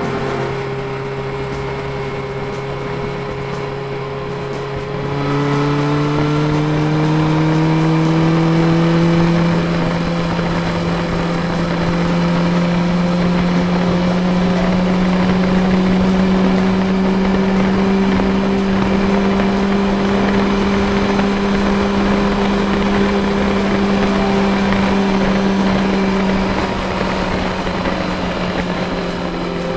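Honda CB550F's air-cooled inline-four engine running at road speed. Its pitch steps up about five seconds in as the throttle opens, climbs slowly, then drops back near the end as the throttle eases.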